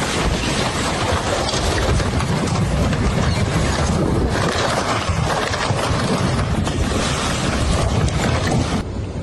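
Loud, steady rushing of strong wind and rough water, with wind buffeting the microphone; the noise drops abruptly near the end.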